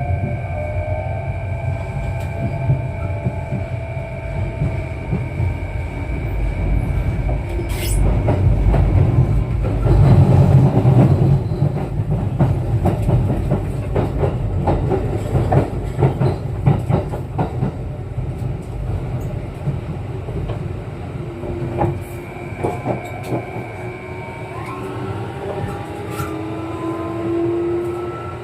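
Running sound heard inside a Kintetsu 9020-series electric train car: a steady rumble with motor whine tones. In the middle comes a run of clacks as the wheels pass over rail joints, and a rising whine near the end as the train picks up speed.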